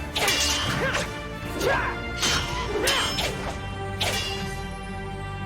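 Cartoon fight sound effects: a run of whooshes and hits, about four or five strokes, over a steady music score that carries on alone near the end.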